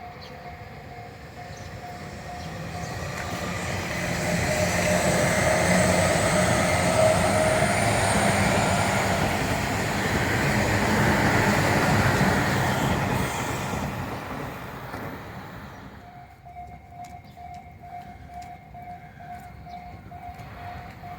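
Tobu Tojo Line electric train passing: the running noise builds over the first few seconds, stays loud for about nine seconds, then fades away. A steady pulsing tone rings before the train arrives and again once it has passed.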